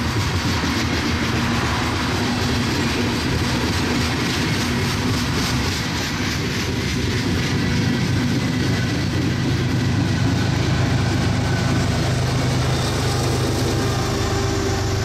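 Coal hopper cars rolling past on the rails with steady wheel clatter, then a diesel locomotive at the rear of the train goes by about halfway through, its engine's low steady hum taking over as the last cars clear.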